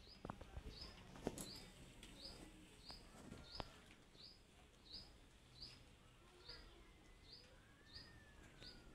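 A small bird chirping faintly over and over, one short high chirp about every two-thirds of a second. A few light knocks near the start and about a third of the way through.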